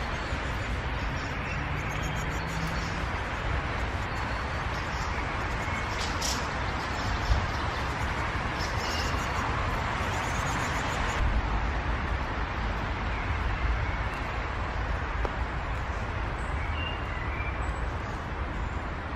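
Steady outdoor background rumble and hiss, with a few faint, short bird chirps scattered through it and a single brief knock about seven seconds in.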